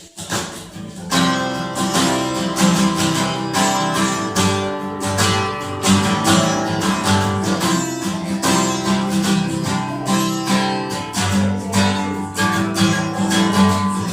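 Acoustic guitar strummed in a steady rhythm of chords, starting about a second in: the instrumental intro before the singing begins.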